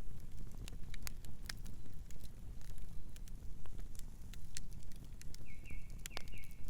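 Campfire crackling, with sharp pops scattered irregularly over a steady low rumble. Near the end a bird gives a few short chirps.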